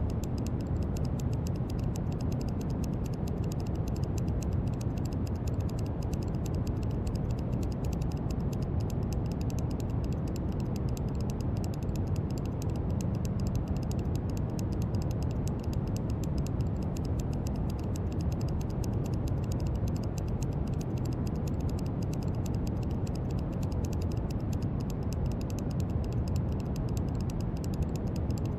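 Steady brown noise: an even, deep rumbling hiss with its weight in the low end and little treble.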